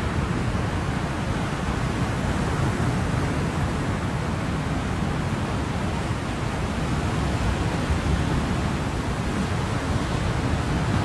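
Ocean surf as a continuous, even rushing, heaviest in the low end, with no separate wave crashes or swells.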